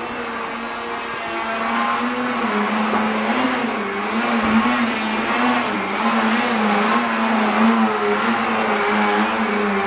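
Engine of a large radio-control aerobatic model aeroplane in flight: a steady, loud drone whose pitch wavers gently up and down as the plane manoeuvres and the throttle changes.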